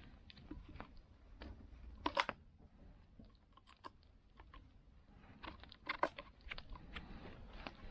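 Campfire crackling: irregular sharp pops and clicks, a few louder ones standing out about two seconds in and again around six seconds.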